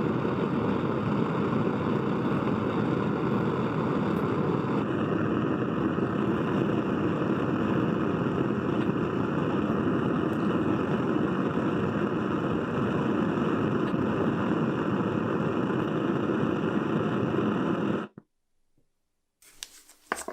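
A power tool running steadily for about eighteen seconds and then cutting off suddenly, followed by a few light metallic clinks near the end.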